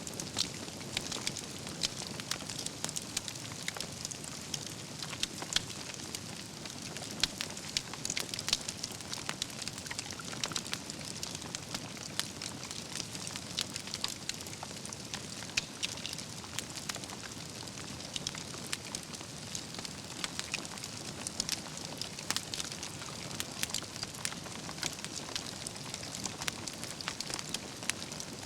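Wood campfire burning, with a steady hiss and frequent sharp crackles and pops from the burning logs.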